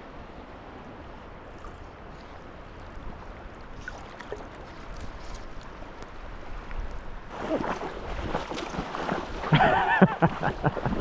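River water flowing steadily. About seven seconds in, louder, closer splashing and sloshing of water starts, with a brief indistinct voice near the end.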